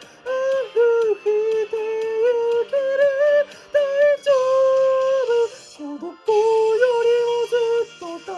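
Pop song: a female voice sings a melody line over a backing track, with a brief break about six seconds in.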